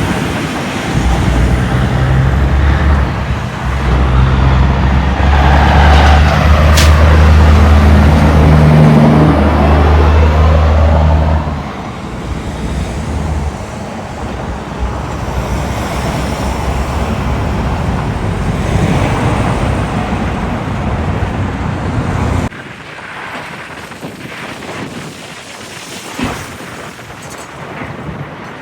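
Diesel semi truck's engine running loudly as it pulls past, then road traffic noise. The sound drops away suddenly about 22 seconds in.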